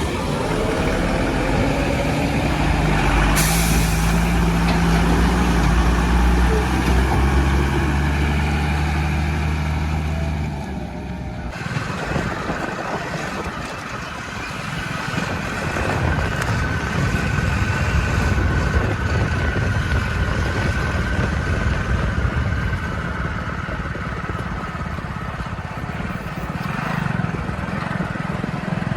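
Heavy diesel engines of a backhoe loader and tipper trucks running steadily, with a short hiss about three seconds in. About eleven seconds in the sound changes abruptly from an even engine hum to a rougher rumble with a faint steady whine.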